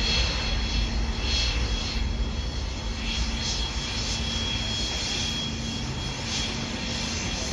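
Boeing 767 jet freighter's twin turbofan engines at takeoff power: a steady rumble and roar with a faint high whine.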